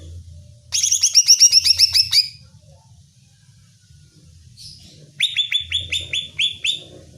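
Cucak ijo (leafbird) calling in two quick runs of sharp, falling chip notes, each about a second and a half long, the second starting about five seconds in.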